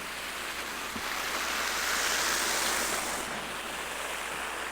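Steady rushing noise like wind blowing across the microphone, swelling for a second or so in the middle.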